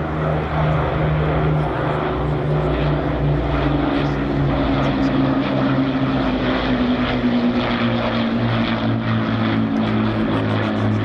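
Piston engines of Second World War propeller aircraft flying past, a steady loud drone whose pitch slowly falls as they go by.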